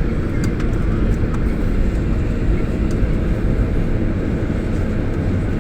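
Steady low rumble inside the cabin of a Boeing 737-800 on the ground just after landing, from its engines and rolling wheels, with a few faint clicks in the first second or so.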